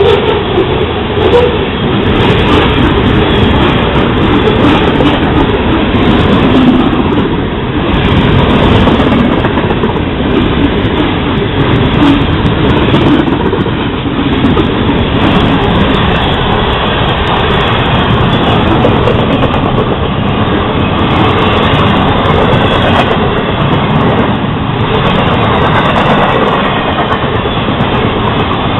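Florida East Coast Railway freight train rolling past, with a loud, steady rumble and clatter of its wheels on the rails that runs on without a break.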